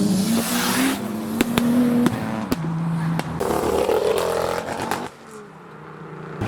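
Modified car engines running and revving in a queue, with several sharp cracks around the middle. The level drops about five seconds in, and an engine note starts to climb at the very end.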